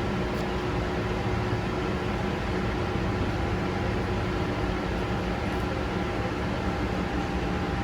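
A steady mechanical hum with a few constant tones, unchanging throughout.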